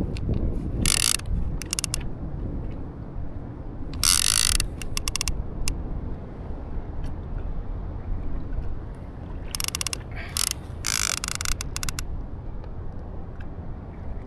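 Fishing reel clicking in short ratcheting bursts as a hooked fish is reeled in, over a steady low rumble.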